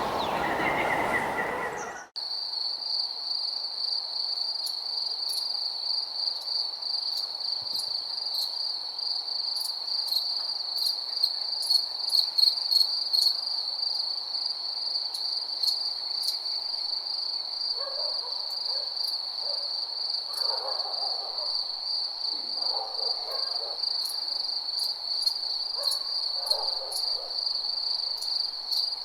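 Chorus of crickets trilling in one steady high-pitched band, starting abruptly about two seconds in where a different, noisier sound cuts off. From about two-thirds of the way in, softer lower calls come and go over it.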